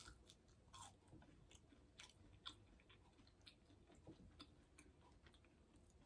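Faint chewing with soft scattered mouth clicks from a person eating a bite of a meatless sausage pizza pocket.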